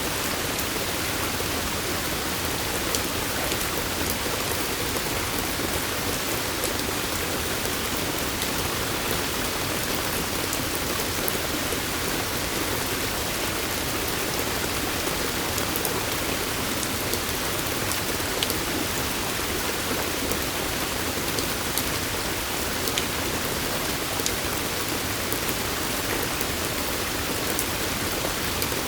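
Steady rainfall, with scattered single drops ticking sharply close by.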